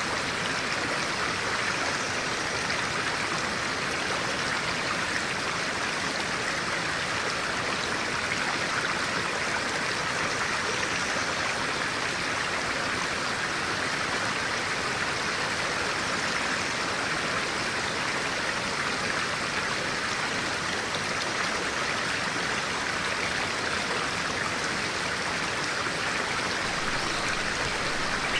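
A clear-water stream flowing steadily over rocks, a continuous rushing and babbling.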